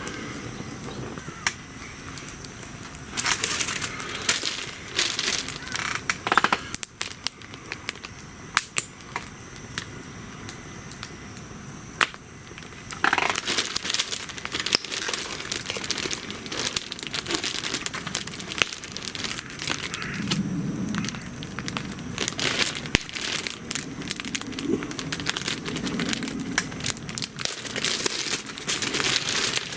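Wood bonfire crackling with frequent sharp pops and snaps, and spells of louder hissing.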